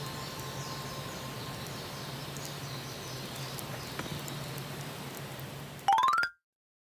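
Steady outdoor rushing noise with faint high chirps. About six seconds in comes a short, loud rising run of tones, an edited-in sound effect, and then the sound cuts out to silence.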